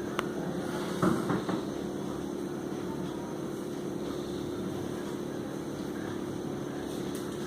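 Steady mechanical hum, like a fan or motor running, with a sharp click just after the start and a brief clatter about a second in.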